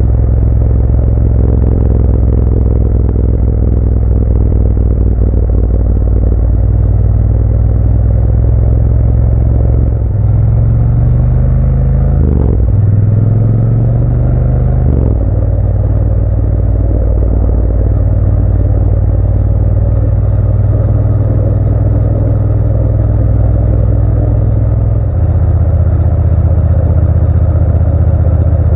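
Motorcycle engine running steadily under way, its note dipping and rising between about ten and fifteen seconds in before settling again.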